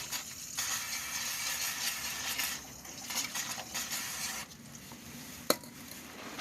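Aerosol spray can hissing in two long bursts, followed by a single sharp metallic click.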